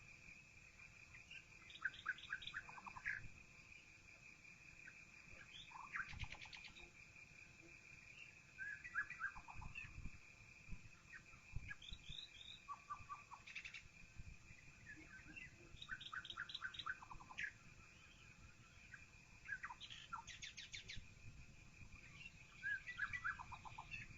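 Songbirds singing through a half-open window: short chirping phrases every few seconds, over a steady high-pitched tone.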